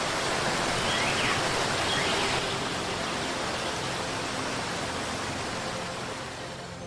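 A steady rushing noise like running water, spread evenly from low to high and slowly fading away, with a couple of faint chirps about one and a half and two seconds in.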